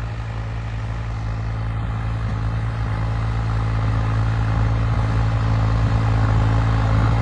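Farm tractor's diesel engine running steadily at working revs while pulling a disc harrow: a constant low drone that grows gradually louder.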